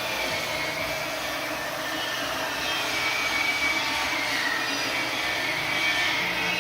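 Machine tool cutting metal on an 820 mm diameter suction-pipe part, running steadily with a faint high tone that wavers and slides slowly in pitch.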